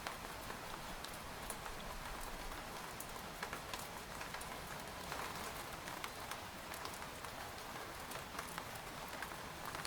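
Steady rain falling on a tent, a continuous hiss with many separate drops pattering and ticking on the fabric.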